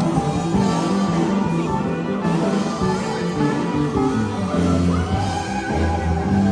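Live sacred steel gospel band playing: a steel guitar over a steady bass line and drums, with a gliding slide note about five seconds in.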